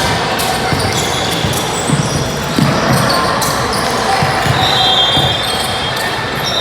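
Basketball bouncing on a gym floor, a series of low thumps over the steady noise of a busy hall, with a high squeak about five seconds in.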